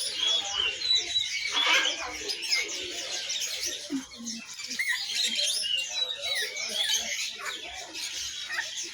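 Many caged songbirds chirping and twittering at once, a dense overlapping chorus of short high calls and whistles.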